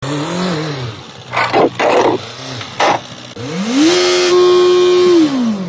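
A car engine revving: a short blip, then after three brief hissing bursts the revs climb steadily, hold high and steady for over a second, and drop back near the end.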